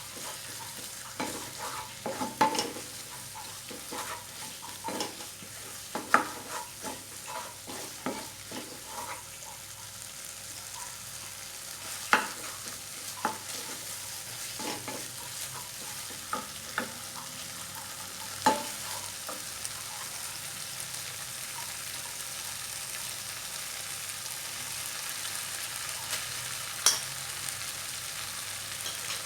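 Fried noodles stir-frying in a pan: a steady sizzle, with a spatula scraping and knocking against the pan. The knocks come often for the first several seconds, then only now and then.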